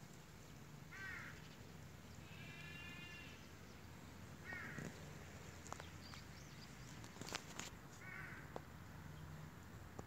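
A bird calling outdoors: four separate calls, the second one drawn out for about a second, with a few light clicks near the end.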